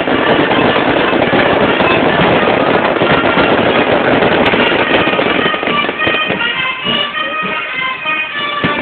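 Fireworks crackling densely in a rapid run of small bangs and pops. About six seconds in the crackle thins, and a wind band is heard playing.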